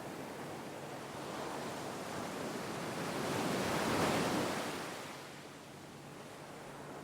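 Gentle sea waves: the surf swells to a peak about four seconds in and washes away, then starts to rise again near the end.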